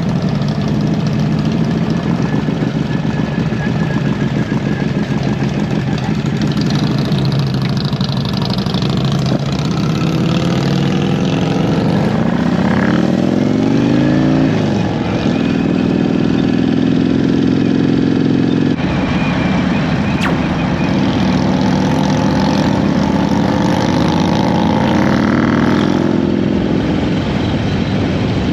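Harley-Davidson V-twin motorcycle engine running under way, its pitch rising and falling as it accelerates and shifts about a third of the way in. The sound changes abruptly a little past halfway, then carries on steady.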